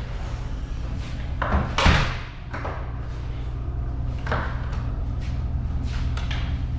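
A door banging shut about a second and a half in, then a lighter knock and a few small clicks, over a steady low hum.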